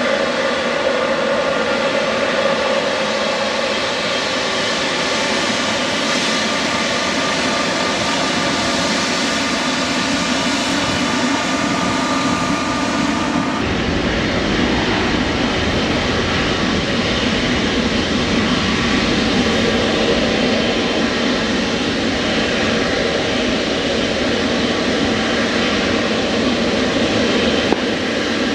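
Airliner jet engines running, a steady whine of several tones over a rushing noise. About halfway through, the sound changes abruptly to a deeper, broader rumble with less whine.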